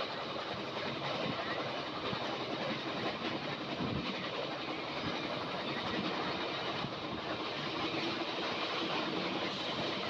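Steady running noise of a moving train, its wheels rumbling on the rails, with a low thump about four seconds in.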